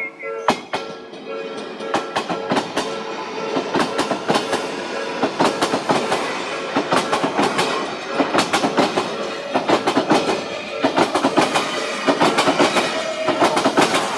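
Odakyu Line electric train passing over the level crossing, its wheels clattering quickly and continuously over the rail joints.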